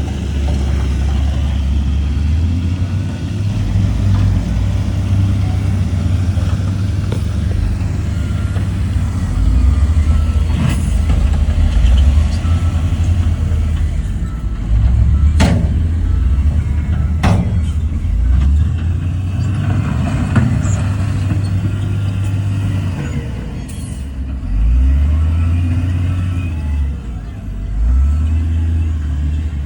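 Heavy diesel earthmoving machinery at work: a deep engine running and surging under changing load. A few sharp knocks come through it, one about a third of the way in and two around the middle.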